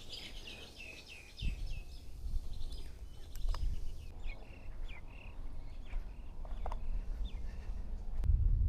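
Birds chirping: a quick run of short, falling chirps at the start, then scattered single calls, over a low rumble that swells twice.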